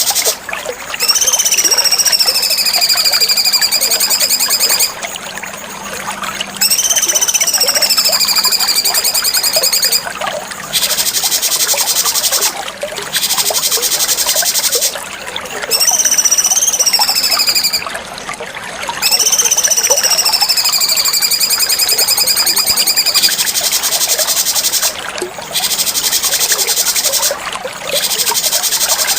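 Recorded cucak cungkok song played as masteran. Long, buzzy, trilling phrases of about two to four seconds each carry a high whistled note that slides downward, separated by short pauses.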